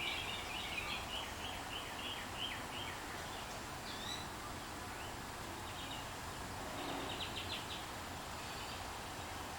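Songbirds singing: a quick run of chirps over the first few seconds, then scattered calls and a short rapid trill about seven seconds in, over a steady background hiss.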